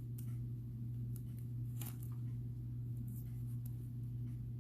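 Steady low hum with a few faint, short clicks and taps scattered through it, from small beads and beading thread being handled.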